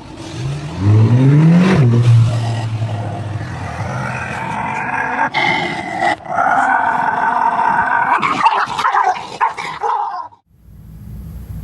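A dog vocalizing at length. A low cry rises in pitch about a second in and is then held low, and is followed by several seconds of higher, drawn-out cries that stop abruptly shortly before the end.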